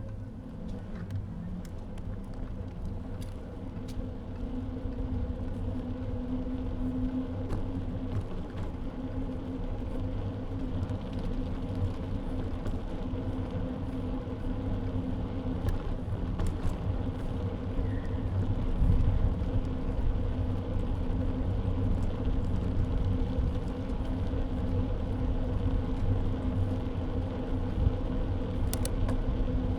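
Steady low rumble and hum of a bike in motion, heard through an action camera clamped to the bike's front right side, with a few faint clicks and rattles along the way.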